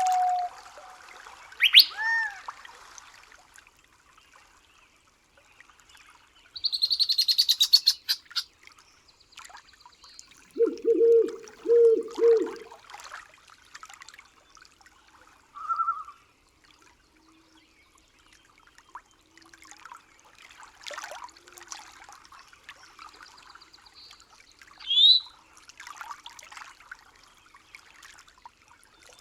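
Night-forest ambience of scattered wild bird calls: a sharp whistled call about two seconds in, a rapid high trill, then a run of four low hoots, and a short rising chirp near the end.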